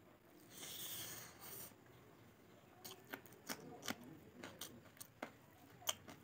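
A person eating rice and pork by hand, close to the microphone: a short breathy rushing noise about a second in, then irregular sharp wet clicks of chewing and lip smacking from about three seconds on.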